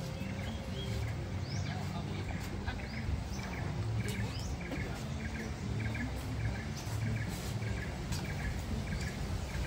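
A bird calling repeatedly in short chirps, about two a second, over a low murmur of distant voices and outdoor background noise.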